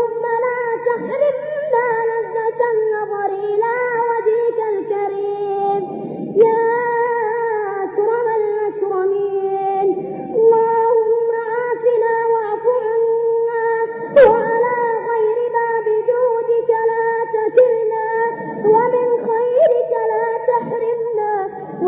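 A high voice chanting an Arabic du'a (supplication) melodically, in long ornamented held notes with no instruments. There are a few sharp clicks, the strongest about two thirds of the way through.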